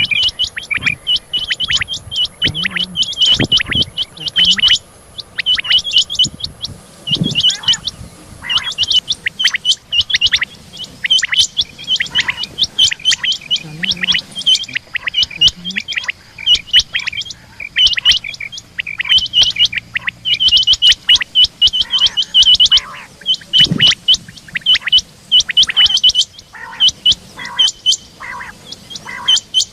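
Rain quail calling: a rapid, continuous run of short, sharp high notes, repeated in quick groups; the call is labelled as the female's.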